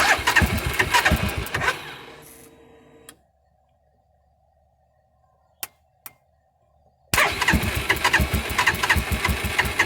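UTV engine cranked by its starter motor, jumped by touching the starter wire directly, turning over in quick even pulses without catching. It cranks for about two seconds and winds down, two sharp clicks follow, then it cranks again near the end.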